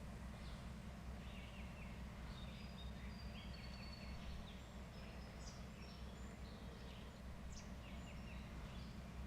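Several small birds chirping and whistling, with short repeated chirps and thin high whistled notes, over a steady low rumble.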